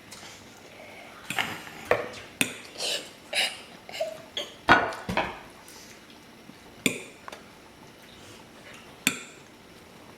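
Scattered clinks and knocks of dishes and cutlery on a table, about a dozen sharp hits at irregular intervals. The loudest comes a little before the middle, and one brief ringing clink comes just before it.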